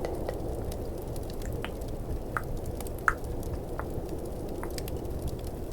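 Tongue clicks, about five spaced under a second apart, over a steady low rumble of snowstorm and fireplace ambience with faint crackles.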